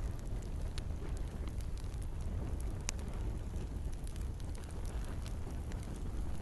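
Campfire burning with sharp crackles and pops scattered through a low, steady rushing of flames. The loudest pop comes about halfway through.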